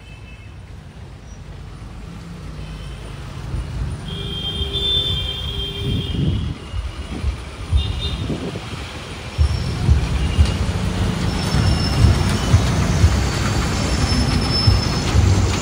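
Passenger train coaches rolling past, their wheels rumbling on the track and growing louder, with repeated knocks from about halfway through. Brief high-pitched squeals from the running gear come about four to six seconds in and again near the end.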